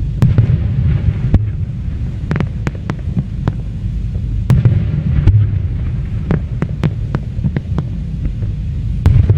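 Aerial fireworks display: shells bursting in a continuous heavy low rumble of booms, with many sharp cracks and reports scattered through it.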